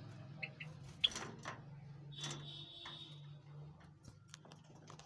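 Java sparrows (Java finches) calling in their cage: short high chirps and clicks, with one longer buzzy note a little over two seconds in, over a steady low hum.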